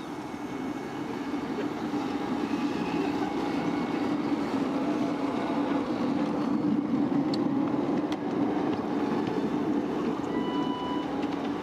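A 7¼ inch gauge miniature railway train running along the track, its wheels rumbling on the rails, growing louder through the first half as it approaches.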